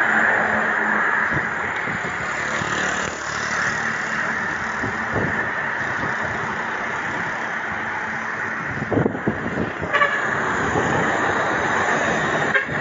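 Steady road traffic noise and rushing air heard while riding a bicycle along a road, with a short horn toot about ten seconds in.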